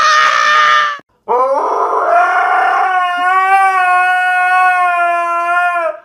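A short high squeal that stops about a second in, then a husky-type dog howling one long howl of about four and a half seconds, rising in pitch at the start and then holding steady.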